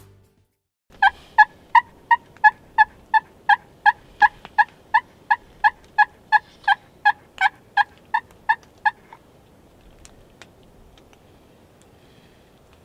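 A long, evenly paced series of about twenty turkey yelps, roughly three a second, starting about a second in and stopping after about eight seconds.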